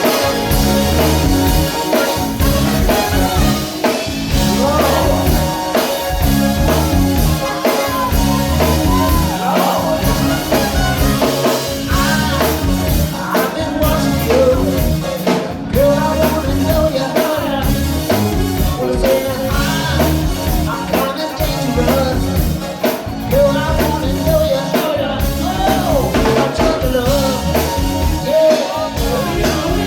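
Live band playing a funk song with a steady drum beat and bass line, with singing over it.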